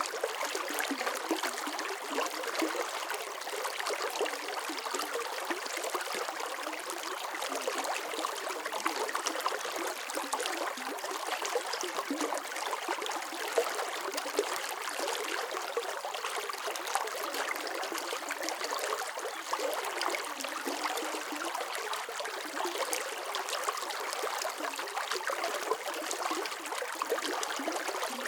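Running water flowing steadily, with a continuous bright splashing and trickling and no deep rumble.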